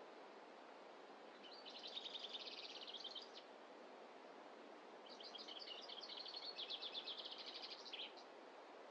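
A small songbird singing two fast, high trilled songs, the second longer, over a steady faint background rush.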